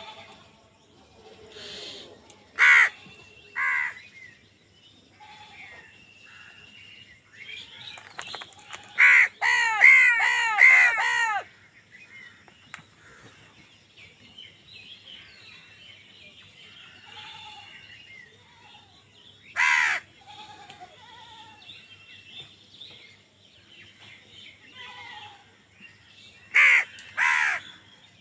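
Crows cawing in loud, harsh calls: two caws a few seconds in, a quick run of several caws about a third of the way through, one caw past the middle and two more near the end, with faint chirping of smaller birds between them.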